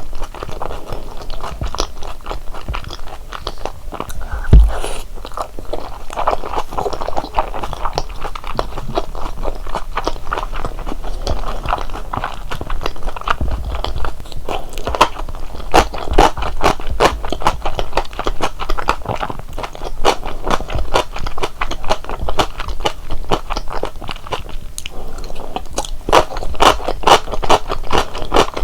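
Close-miked chewing and biting of large Korean dumplings (wang mandu): a dense, continuous run of small mouth clicks and crunches. A single low thump stands out about four and a half seconds in.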